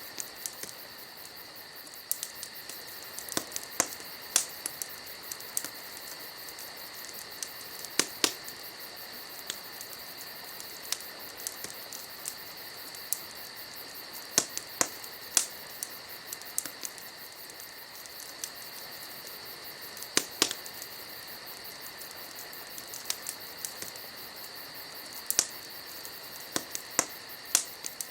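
Wood fire crackling, with irregular sharp pops scattered through it, over a steady high chirring of insects.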